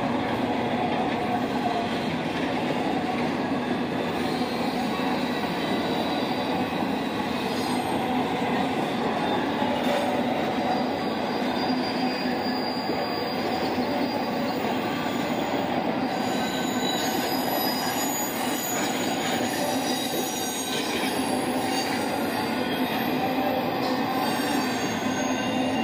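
Freight train cars rolling steadily past, steel wheels clattering and rumbling on the rails. Thin high-pitched wheel squeals come and go, mostly in the second half.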